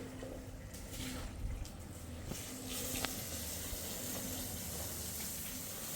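Running water, a steady hiss that swells about two and a half seconds in, with a single sharp click about three seconds in.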